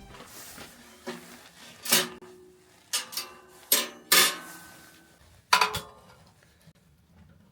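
About seven sharp metallic clanks and knocks, some ringing briefly, spaced irregularly a second or less apart, as camp gear is handled.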